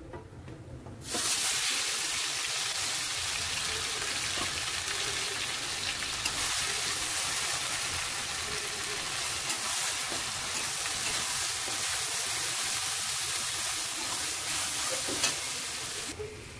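Ground onion-and-spice masala paste dropped into hot oil in a steel kadai: a sudden sizzle about a second in, then steady frying sizzle as a metal spatula stirs and scrapes the paste around the pan, with a few sharp clicks. The sizzle falls away near the end.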